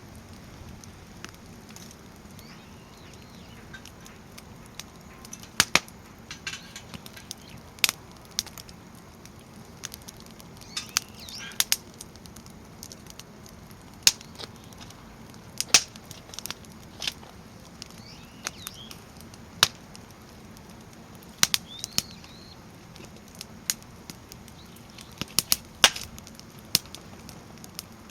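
Firewood burning in a steel fire pit, crackling with sharp irregular pops a few seconds apart over a steady low hiss.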